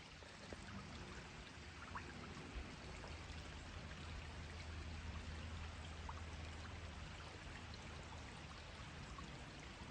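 Faint, steady rush of flowing water, with a low hum rising in the middle and fading near the end.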